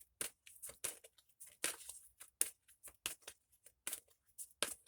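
Tarot cards being shuffled by hand: a run of short, crisp card slaps and rustles, about three a second.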